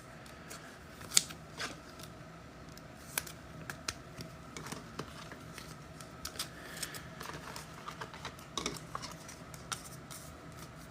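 Trading cards and card packs being handled on a table: scattered faint clicks, taps and small rustles at an irregular pace.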